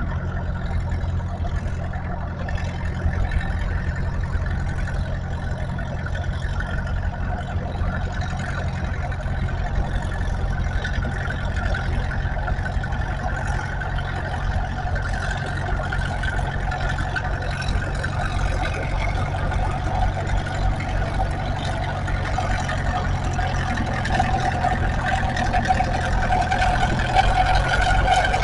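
Farm tractor engine running hard and steady under load, pulling the sled. A higher-pitched engine note grows louder toward the end.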